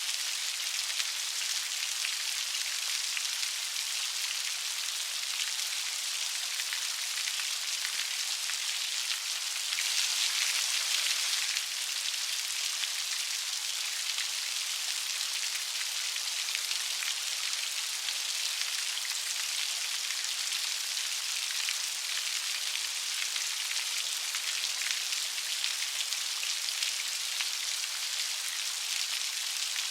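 Steady light rain falling, a fine even patter of drops with no thunder, swelling slightly for a second or two near the middle.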